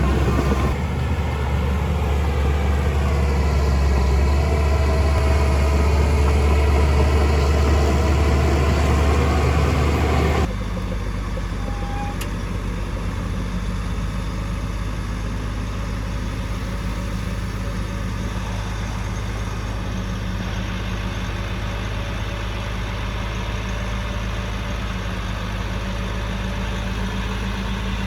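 Diesel engine of heavy construction machinery running loudly, its pitch wavering slightly. About ten seconds in, the sound cuts abruptly to a quieter, steady engine idling.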